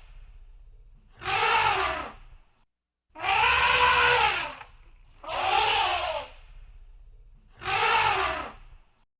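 An animal calling four times, each call lasting about a second and arching up then down in pitch.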